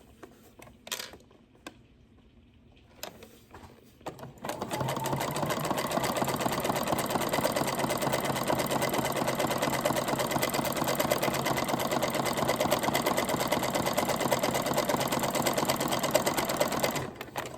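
Janome Memory Craft 9000 sewing machine running steadily at a fast, even stitch rate, sewing a zigzag stitch along the edge of doubled thin cloth. It starts about four seconds in, after a few light handling clicks, and stops just before the end.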